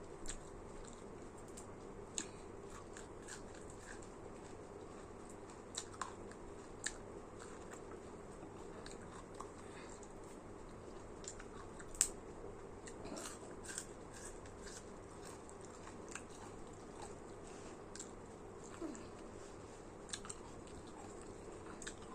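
Close-miked chewing and eating: scattered small wet mouth clicks and smacks, the sharpest about twelve seconds in, over a steady low hum.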